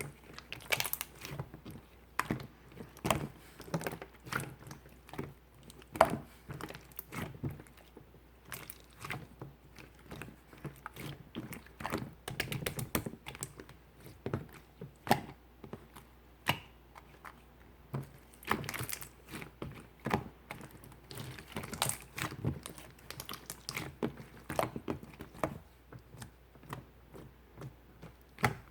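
Hands kneading and pressing clear slime: irregular sticky clicks and pops, several a second, with a louder snap now and then.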